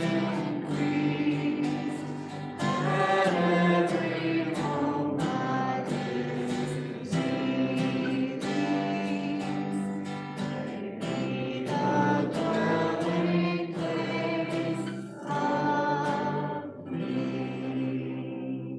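Choir singing a slow piece of church music with accompaniment, in held, changing notes; the music ends right at the close.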